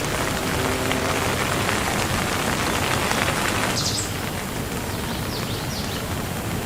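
Steady rain falling on a surface, an even hiss of drops that eases slightly about four seconds in.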